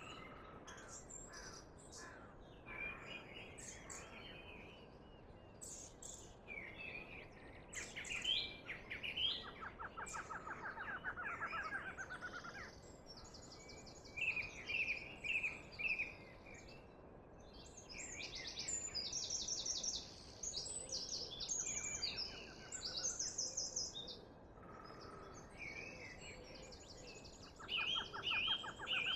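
Several songbirds singing and calling over a steady soft background hiss, with fast trills and repeated chirps that grow busier in the second half.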